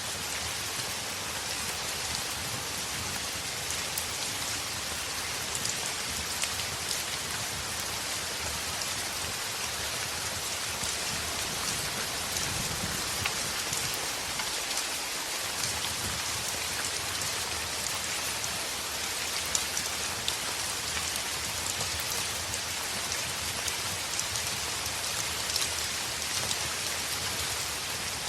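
Heavy rain falling steadily on a window, a dense even hiss with scattered sharp drop ticks.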